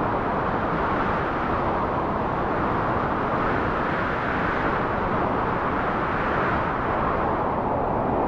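Wind blowing steadily, a rushing noise that slowly swells and eases.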